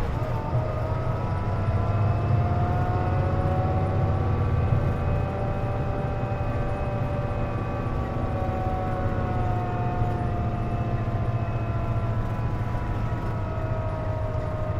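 Inside a Hino KC-JP250NTN city bus under way: a low steady rumble with a loud whine of several tones over it that slowly rises in pitch, then falls from about halfway, and rises again near the end. This whine is the bus's odd noise, which the recordist puts down to the air conditioning being on.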